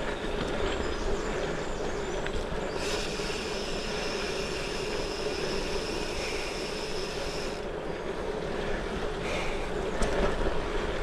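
Gravel bike on Goodyear Connector tyres rolling along, with tyre and wind noise and a steady hum. From about three seconds in until about seven and a half seconds, a high buzzing comes in: the rear hub's freewheel ratcheting while the rider coasts.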